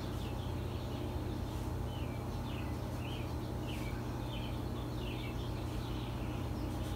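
Small birds chirping repeatedly in short, falling chirps over a steady low hum.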